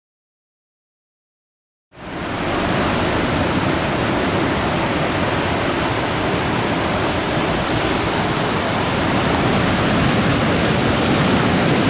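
Rushing water of a river swollen by typhoon rain, a steady loud roar that fades in about two seconds in after a moment of dead silence.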